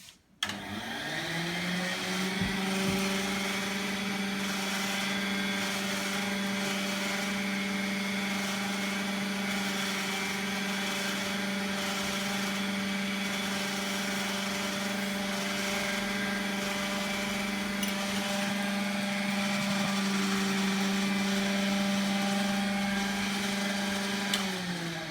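1938 Bustler Goliath vacuum cleaner switched on: its motor spins up quickly with a rising hum, runs at a steady pitch, and winds down with a falling hum as it is switched off near the end.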